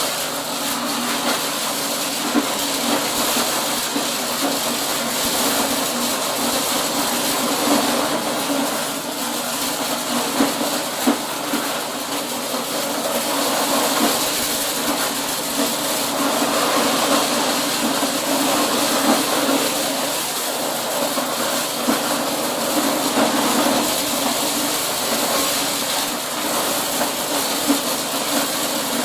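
Corn-processing machine running steadily under load, a continuous mechanical din with a few brief louder knocks.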